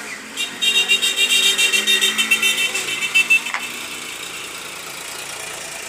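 Multimeter continuity buzzer sounding in a rapid, stuttering run of high beeps for about three seconds as the probes are run over circuit-board tracks, testing for a short between tracks.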